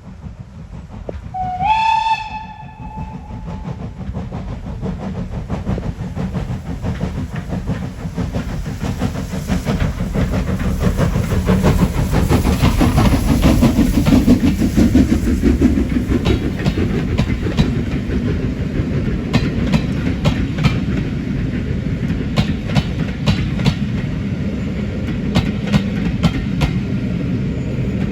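Steam locomotive, LMS 'Jinty' 0-6-0 tank engine 47298, sounding its whistle once, briefly, about two seconds in. Then the train runs past with a rumble that grows loudest in the middle, and wheels click over rail joints through the second half.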